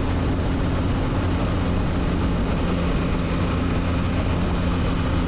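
Can-Am Spyder F3 three-wheeler running steadily at road speed. Its engine drones evenly under a constant rush of wind noise.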